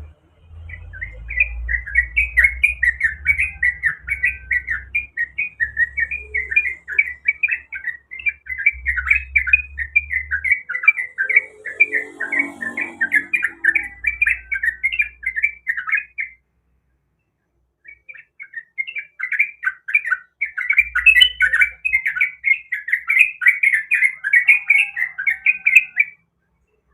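Yellow-vented bulbul singing a fast, continuous chattering song of rapid notes, stopping for about a second and a half near the middle before starting again.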